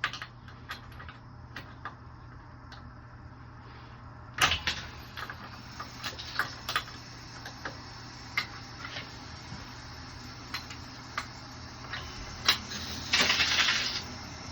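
Metal clicks and knocks of brass test-kit fittings and test-cock valve handles being worked on a backflow preventer, with one louder knock about four seconds in. Near the end a hiss of about a second as the valves are opened and pressure is established on the test kit, over a steady low hum.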